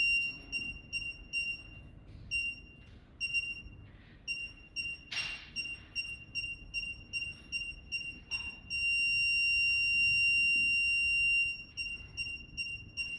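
Parking sensor buzzer sounding a high beep that repeats at a steady rate, then merges into a continuous tone for a few seconds past the middle before breaking back into beeps. The continuous tone is the sensor's signal that an obstacle is at its closest range. A short rustling burst sounds about five seconds in.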